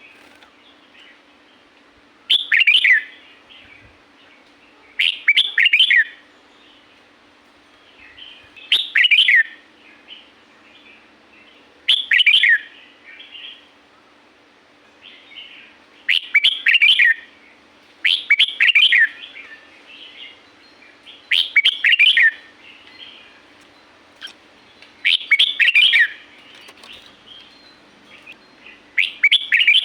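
Red-whiskered bulbul singing: short, loud, rapid phrases of falling whistled notes about every three seconds, with quieter chattering calls between them. A faint steady hum runs underneath.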